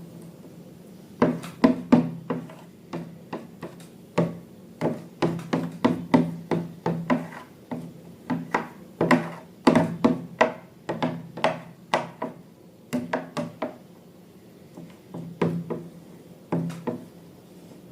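Irregular series of sharp knocks and taps on a hard surface, a few a second, beginning about a second in and thinning out near the end.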